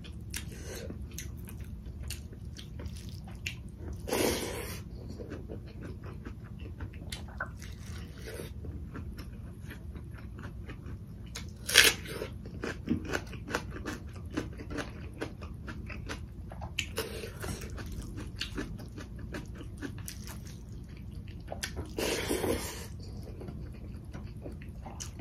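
Close-up eating sounds: chewing and mouth smacking on rice and curry eaten by hand, with one loud crunch about halfway through as she bites into a raw red onion.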